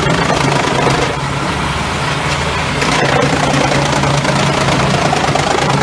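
Large wood chipper running, its diesel engine holding a steady drone with a broad noisy hiss from the machinery.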